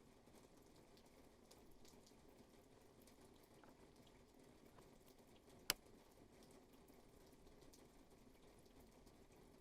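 Faint, steady rainfall with scattered drops ticking, and one sharp, louder drop-like tap a little past halfway.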